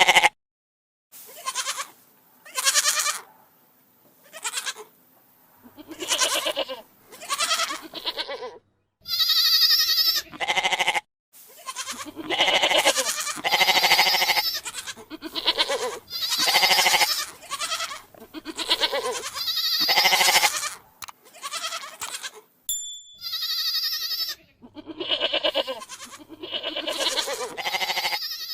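Goats bleating, one wavering call after another with short pauses between them, a few calls higher-pitched than the rest.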